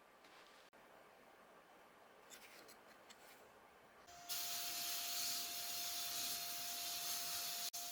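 Light handling taps and rubbing, then about four seconds in a steady spraying hiss starts abruptly and keeps going, with a steady whine tone under it.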